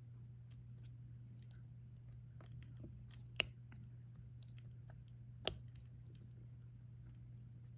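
Small scattered clicks and taps of a diamond-painting drill pen picking up diamond drills and pressing them onto the adhesive canvas, with two sharper clicks a few seconds in and about two seconds apart. A faint steady low hum runs underneath.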